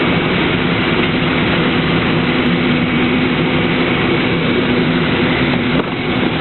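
Heil 5000 rear-loader recycling truck running, a loud steady engine drone.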